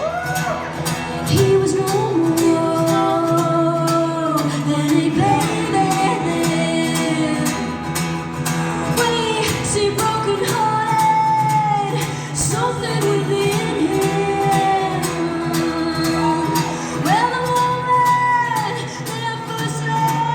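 Live band music with a female singer holding long, bending notes over guitar in a large room.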